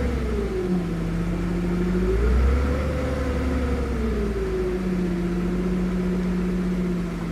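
Diesel engines of heavy earthmoving machinery running, one engine note rising as it revs about two seconds in and then settling back under a steady lower drone.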